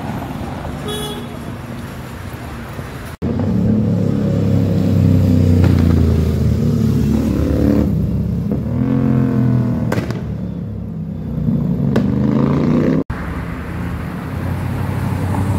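Roadside traffic, cut off abruptly about three seconds in and again near the end. In the middle, motorcycle engines rev and accelerate past, their pitch rising and falling several times. Near the end a car engine runs with a strong low note as a red Audi coupe drives up.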